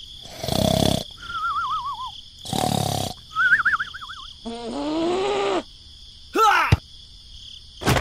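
Cartoon snoring sound effect, done twice: a rasping inhale and then a wavering whistle on the out-breath. It is followed by a short sleepy voice sound, a quick rising sweep and a sharp knock near the end.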